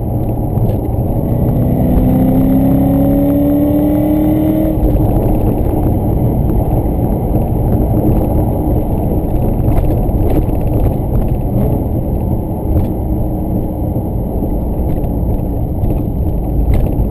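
BMW E39 540i's 4.4-litre V8, decatted and with a Reuter Motorsport exhaust, heard from inside the cabin. It pulls up through the revs under acceleration for the first few seconds, the engine note rising steadily, then the rise stops abruptly about five seconds in and gives way to a steady low engine and road rumble.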